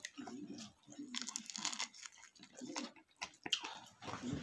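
A person chewing a mouthful of squid adobo and rice, with irregular bursts of mouth noise.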